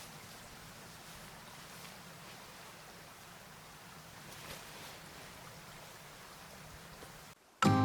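Faint, steady rush of a flowing river, with a few soft rustles. Near the end it cuts off and music starts.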